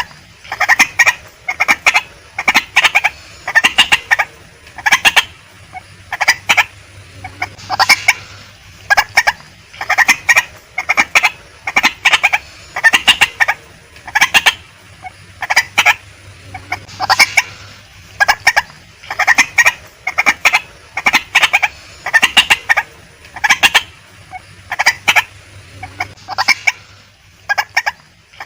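Female white-breasted waterhen calling: short harsh notes in quick clusters, repeated about once a second.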